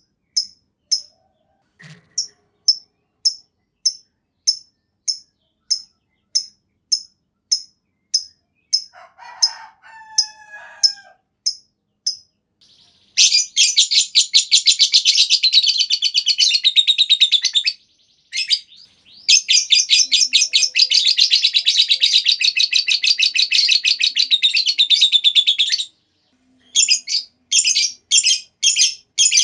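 Lovebird calling. A run of sharp, high chirps at an even pace leads into two long, rapid chattering trills (the 'ngekek panjang') of several seconds each, and separate chirps return near the end.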